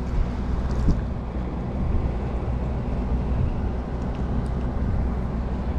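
A steady low engine drone, even throughout, with a faint tick about a second in.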